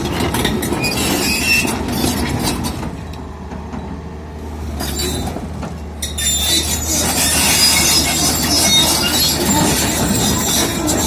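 Tracked excavator on the move: the diesel engine hums steadily while the steel tracks squeal and clank, growing louder about halfway through.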